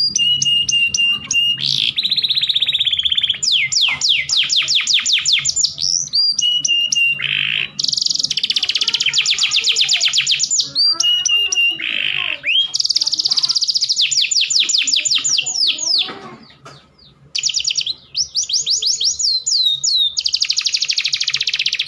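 Domestic canaries singing: fast rolling trills of rapidly repeated sweeping notes, broken by short held whistles. The song pauses briefly about sixteen seconds in, then resumes.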